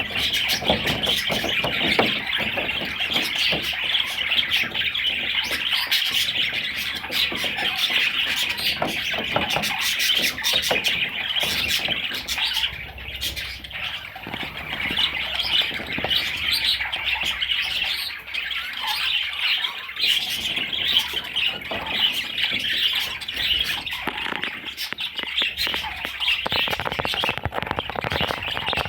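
Budgerigar chirping and chattering without a break, with many short sharp clicks among the calls.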